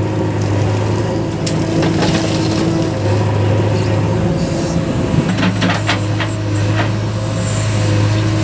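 Heavy diesel engine running at a steady speed, with a short dip a little past the middle and a handful of sharp knocks and clatters between about five and six and a half seconds in.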